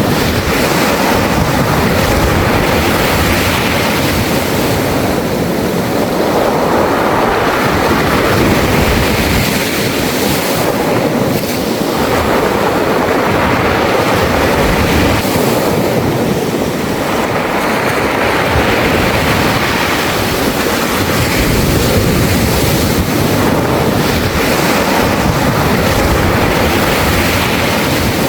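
Sea waves washing in and draining back over a beach of smooth round pebbles, the stones rattling in the backwash. The surge swells and eases every five or six seconds.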